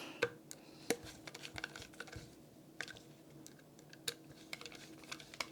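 Scattered light clicks and ticks, a dozen or so at irregular intervals, of small parts being handled at a workbench, over a faint steady hum.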